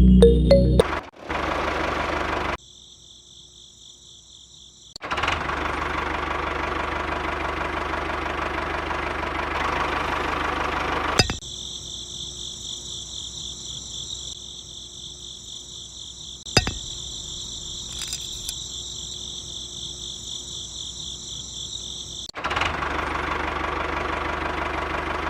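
Small electric hobby motors whirring in several short clips that cut abruptly from one to the next. Some clips carry a steady high whine, others a rougher, noisier whir.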